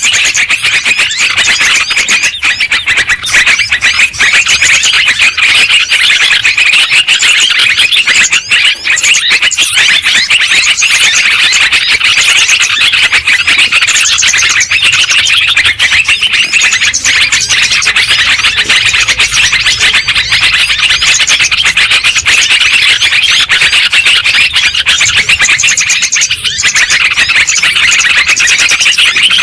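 Yellow-vented bulbuls (terucukan) calling noisily: a loud, dense, continuous chatter of many overlapping chirps and squeaky calls without pause, the flock sound used as a lure to draw bulbuls in.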